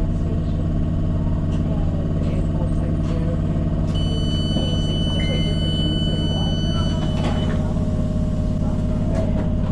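Tyne and Wear Metro train's steady low running noise with a constant hum. About four seconds in, a high steady electronic tone sounds for about three seconds.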